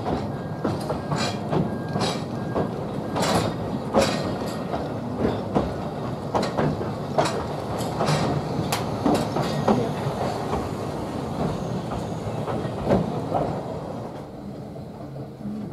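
Narrow-gauge Talyllyn Railway train running, its wheels clattering and knocking irregularly over the rail joints under a steady rumble. It grows quieter near the end.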